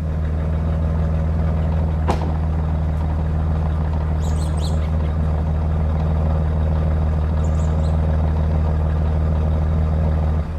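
Old stock exhaust of a 1994 Dodge Dakota's 3.9-litre Magnum V6 idling steadily, heard right at the tailpipe tip, with a single click about two seconds in. The sound cuts off at the very end.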